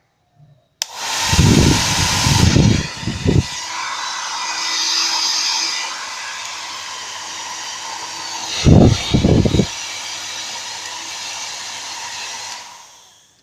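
Nova NHP 8100 1200-watt hair dryer switched on with a click about a second in and blowing steadily with a whine, broken twice by spells of low rumble. It dies away near the end.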